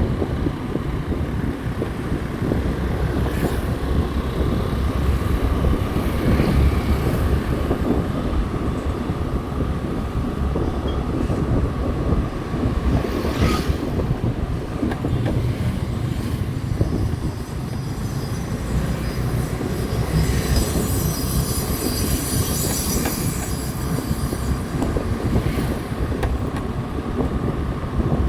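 Motorcycle running along a road, with a steady low rumble of engine, tyres and wind on the microphone; a brief hiss joins it about two-thirds of the way through.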